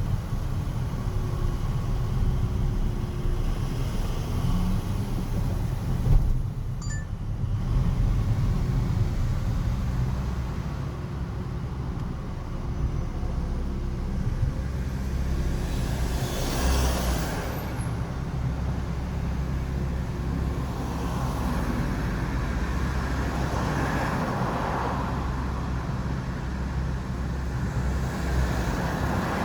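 City street traffic: a steady low rumble of engines and tyres, with single vehicles passing by. One pass just past halfway brings a brief tyre hiss, and a few more vehicles swell past near the end.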